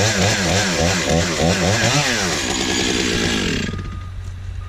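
Two-stroke chainsaw revved up and down in quick repeated throttle bursts for about three seconds, then its high noise stops abruptly, leaving a low steady engine hum.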